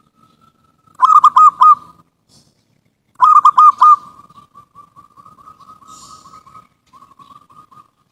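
Zebra dove (perkutut) cooing: two loud bursts of three or four quick coos, about a second in and again just past three seconds, the second running on into a long, soft, rapid trill.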